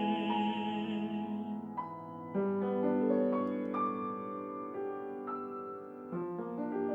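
Classical art song with piano: a singer's held note with vibrato ends a little under two seconds in, and the piano then plays on alone, its notes entering one after another.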